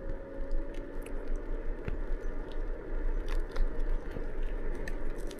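Electric ride-on's wheels rolling over a rough path: a steady crunching rumble with scattered small clicks and knocks, and a faint motor whine that fades out about a second in.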